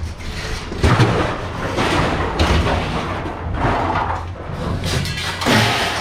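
Heavy scrap being handled and loaded into a truck: irregular thumps and knocks with scraping and clatter, the loudest knock about a second in and another near the end.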